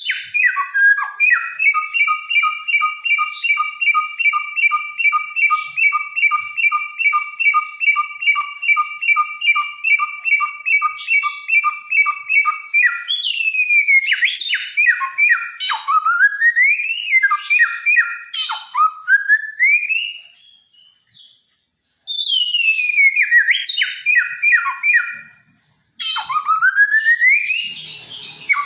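Samyong, a songbird of Nusa Tenggara, singing loudly. First comes a fast run of the same two-pitch whistled note, about three a second, for some twelve seconds. Then it switches to varied rising and falling whistles and chirps in bursts, with two short pauses.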